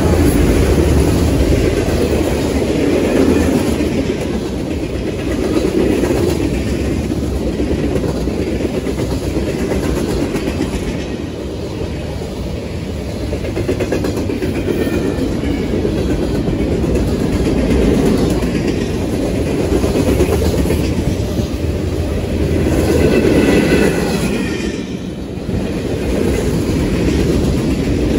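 Freight cars of a CSX manifest train rolling past close at track level: a loud, continuous rumble and clatter of steel wheels on rail that rises and falls. There is a brief higher whine about three-quarters of the way through.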